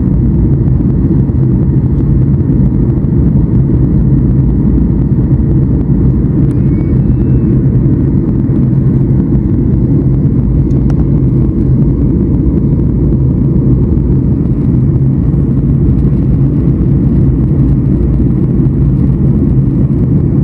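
Steady, loud cabin drone of a Boeing 737 MAX 8 airliner in flight: engine and airflow noise, low and even, with no change in pitch.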